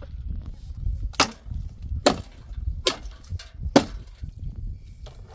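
Wood being chopped: four sharp strokes, a little under a second apart, the last the loudest, over a steady low rumble.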